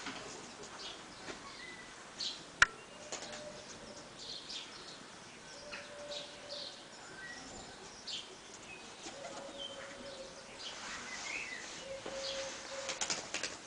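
Birds chirping in many short high calls, with a few brief low held notes among them. A single sharp click comes about two and a half seconds in.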